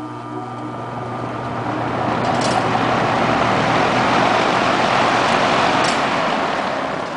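Vintage Sears box fan starting up: a low electric-motor hum with the rush of air building over about three seconds as the blades come up to speed, then holding steady and easing slightly near the end.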